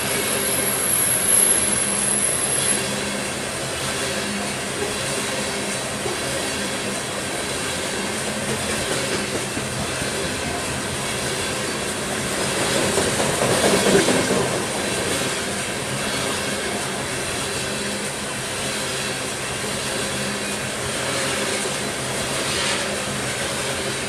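Loaded coal train rolling past, its steel wheels running on the rails with a steady rumble and clatter that swells louder about halfway through.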